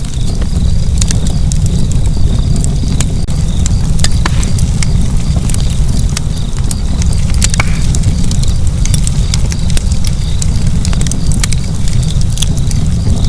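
Fireplace fire burning: a steady low rumble of flames with frequent sharp crackles and pops scattered throughout.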